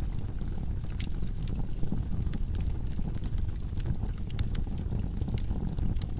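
Wood logs burning in a fireplace: a steady low rumble of flame with frequent sharp crackles and pops, several a second.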